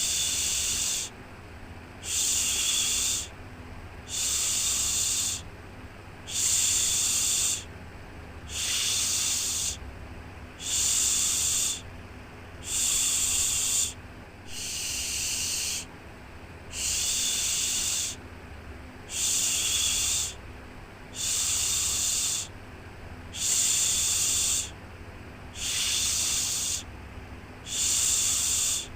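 Baby-soothing 'shhh' shushing, repeated in a steady rhythm: one long shush about every two seconds. A faint steady low hum runs underneath between the shushes.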